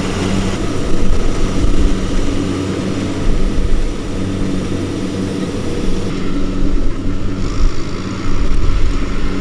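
Diesel engine of a harvesting machine running steadily under load, a constant low hum with a rough rumble underneath.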